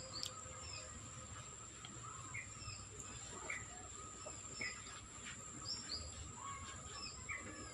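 Faint bird chirps: short, quick calls repeating about once a second.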